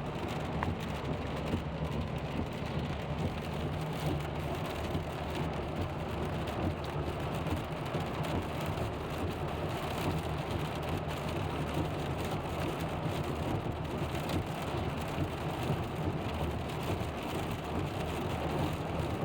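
Rain striking a car as it drives on a wet road, with the car's steady low road noise underneath and many small drop ticks.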